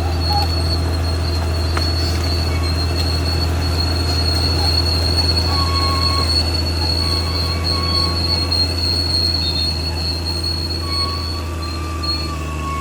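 CAT D6R XL bulldozer's diesel engine running steadily under a steady high-pitched metallic squeal, with shorter squeals coming and going lower down, typical of steel crawler tracks grinding over their rollers and idlers as the dozer moves.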